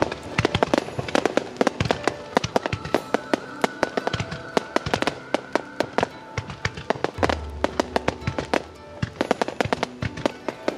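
A music starmine firework barrage sounds as a dense run of sharp bangs and crackles, several a second, over music with sustained notes.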